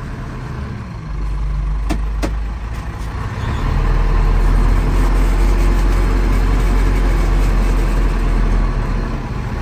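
Fermec backhoe's diesel engine running, growing louder about a second in and again near four seconds in, then holding steady. Two sharp clicks about two seconds in.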